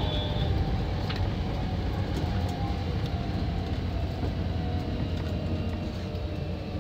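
Hankyu 7000 series electric train running on the line, heard from inside the front car: a steady wheel-on-rail rumble that eases slightly, with a short click about a second in.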